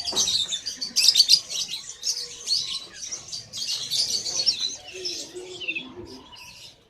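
Many caged birds chirping and twittering at once, a dense overlapping chorus of high calls and trills that thins out toward the end.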